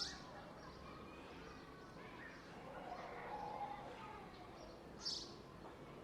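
Park ambience: a steady background of distant, indistinct voices, with a short high bird chirp right at the start and another about five seconds in.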